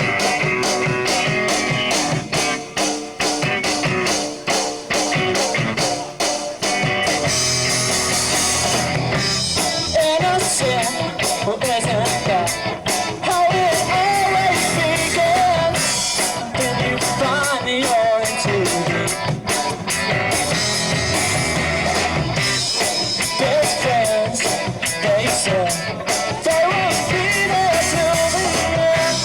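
Live rock band playing loudly: electric guitar and bass over drums keeping a steady beat, with a singer coming in about ten seconds in.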